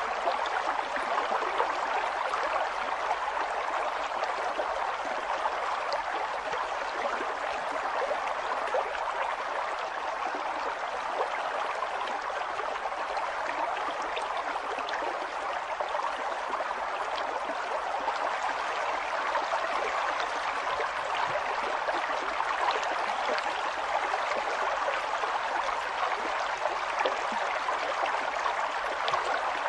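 River water flowing and splashing over stones, a steady rushing with small splashes throughout.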